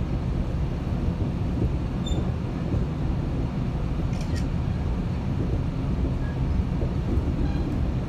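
Metrolink commuter train running along the track, heard from inside a passenger car: a steady low rumble of the wheels on the rails, with a couple of faint ticks.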